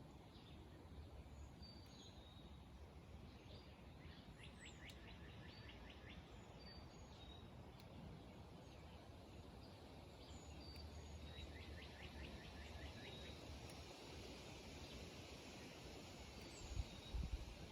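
Wild birds singing faintly: scattered short, high chirps and, twice, a rapid trill lasting about two seconds, over a steady low background rumble. A few low thumps near the end.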